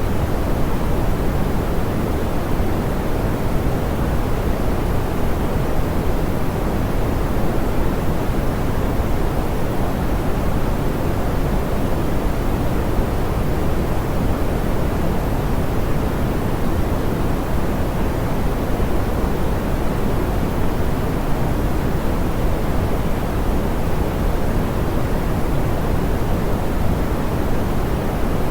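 Steady, smoothed pink noise: an even hiss-like rush, heaviest in the low and middle range and soft in the highs, without change.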